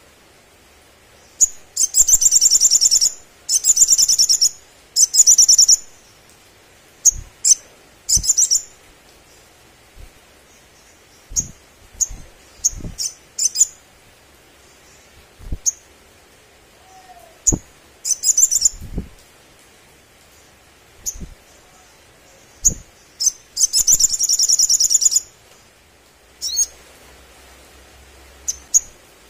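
Sogon sunbird singing: rapid, high trills of about a second each, several in quick succession near the start and again later, with single sharp chips in between. A few faint knocks sound between the calls.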